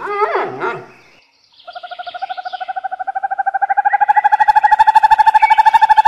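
A bird's call with strongly wavering pitch fades out within the first second. After a short gap, a fast, even trill of pulsed notes starts a little under two seconds in and grows steadily louder.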